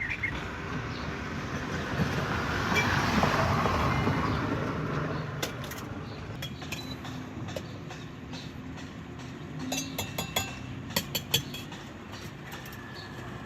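A vehicle passes on the street: a rush of traffic noise that builds and fades in the first few seconds, over a steady background hum. Near the end come a few light clinks and knocks.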